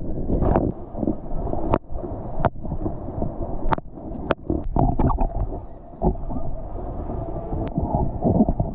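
Water sloshing and gurgling around a person in the water, with scattered splashes and knocks. It sounds muffled and low, with little treble.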